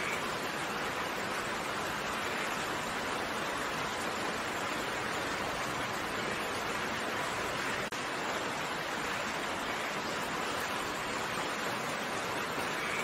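Steady rain: an even hiss of falling raindrops, with one momentary drop-out about eight seconds in.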